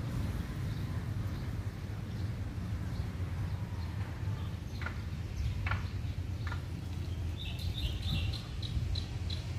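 Birds chirping outdoors: a few short calls around the middle, then a quick run of high chirps near the end, over a steady low rumble.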